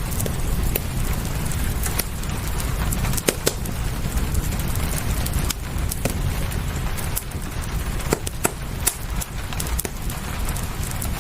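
Fireplace crackling, with irregular sharp pops and snaps over a steady hiss of rain and a low rumble.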